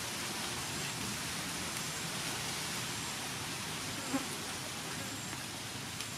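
Beef and leafy greens sizzling in a wok with a steady hiss, and one brief knock about four seconds in.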